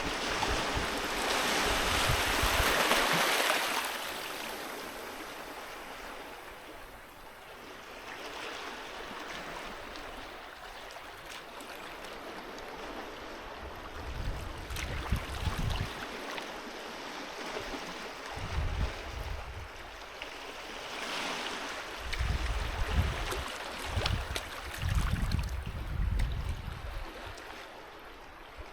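Sea waves breaking and washing up a beach: one loud wash in the first few seconds, then softer surges. Irregular low rumbles come in the second half.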